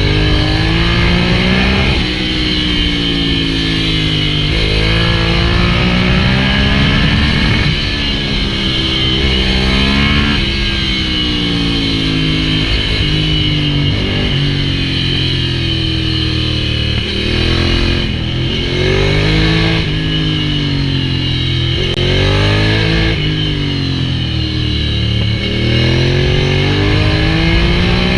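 Ducati Hypermotard 796's air-cooled L-twin engine through an SC-Project full exhaust, revving up and dropping back again and again. Its pitch climbs and falls every two to three seconds.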